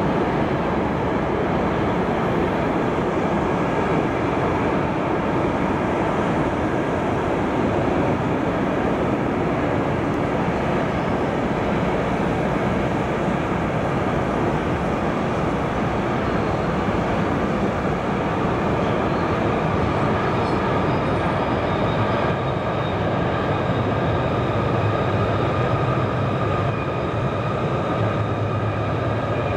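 Container freight train rolling steadily across a railway bridge, a continuous rumble and rattle of wagons on the rails. About three-quarters of the way in, a deeper hum joins as an S-Bahn electric train crosses on the bridge above.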